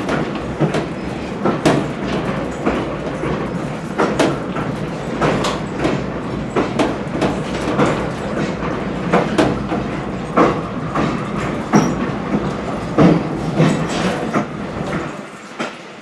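Railroad passenger coach rolling along the track: a steady rumble with irregular clacks and knocks from the wheels and car body. The low rumble drops away near the end.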